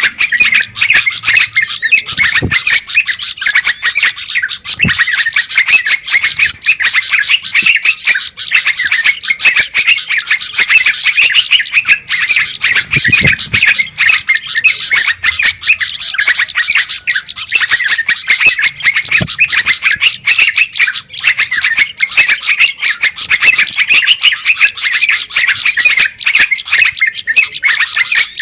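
A loud, dense, unbroken din of many small songbirds chirping and chattering over one another, played as a bird-lure recording of noisy calls meant to draw wild birds in.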